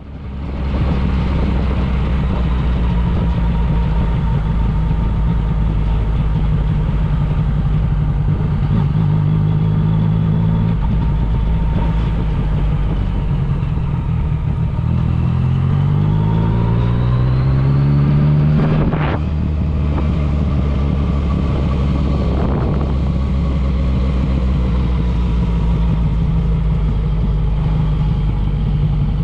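Yamaha MT-09 Tracer's three-cylinder engine running under way, steady for most of the time. Its pitch rises as it revs up about halfway through, followed by a sharp crack a little later, after which the engine settles back to a steady run.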